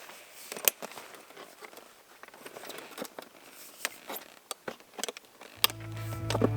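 Scattered faint clicks, taps and rustles of small handling sounds. Near the end, background music with a low steady bass line fades in.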